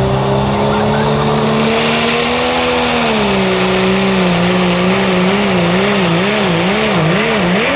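Diesel 4WD pulling truck running hard under load while dragging the pulling sled. The engine pitch climbs slowly, drops about three seconds in, then surges up and down about twice a second toward the end.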